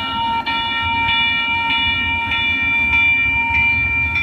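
Light rail train running, with a loud, steady high-pitched tone held over the low rumble of the train.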